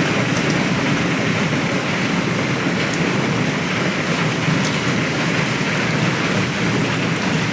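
Hail and rain falling heavily: a steady, dense hiss with a few faint ticks of stones striking.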